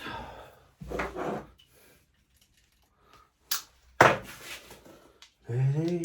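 Scattered knocks and clicks of parts and tools being handled on a workbench, the loudest a sharp knock about four seconds in, with a brief hum of a voice near the end.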